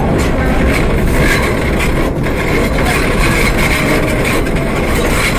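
R32 subway train running on elevated track, heard from inside the front car: a steady rumble of wheels and motors, with a high steady whine joining about a second in.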